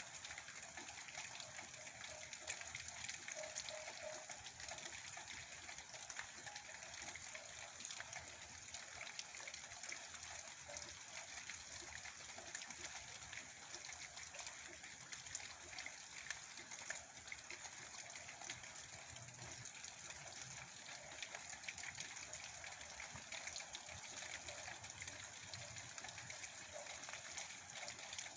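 Steady rain falling: a constant hiss with the fine ticks of single drops throughout.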